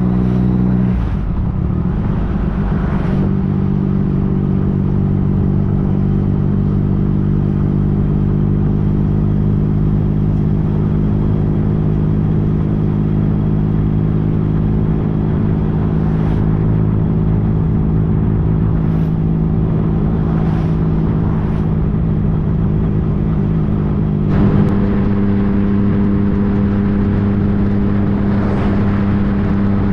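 2015 Yamaha FJ-09's inline three-cylinder engine running under way over a steady wash of road and wind noise. The engine note breaks and settles lower about a second in, as with an upshift. It jumps sharply higher about 24 seconds in.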